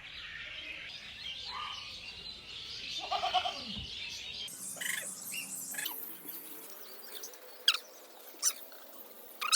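Parakeet chirping and calling, with background chirping in the first half and two short, sharp, shrill calls near the end.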